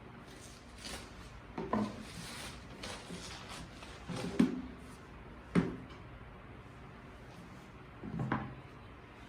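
Objects being handled and set down on a hard surface: several knocks and thuds at irregular intervals, the sharpest about four and a half and five and a half seconds in.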